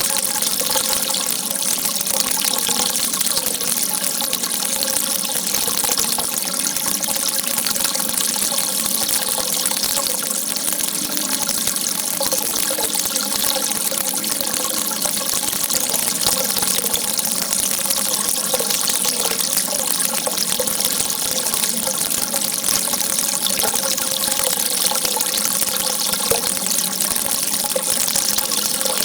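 Water gushing in a steady, unbroken rush.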